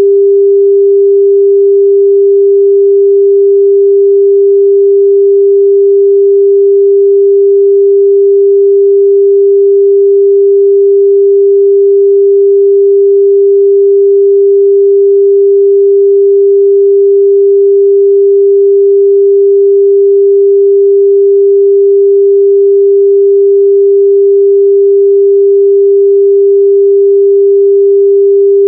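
Steady 398 Hz sine-wave test tone, a single pure, loud, unchanging mid-range pitch.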